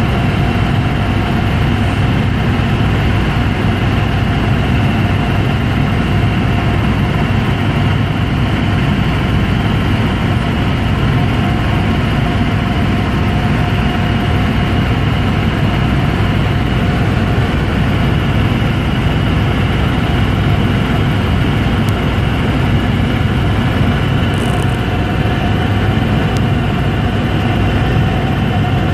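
Helicopter in steady flight: a loud, unchanging engine and rotor drone with a deep rumble and a steady whine over it.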